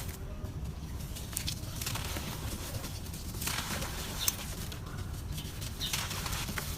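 Dry, grainy red dirt crumbling: a gritty rustle and crackle of falling grains that comes in waves, with a few sharp crunches.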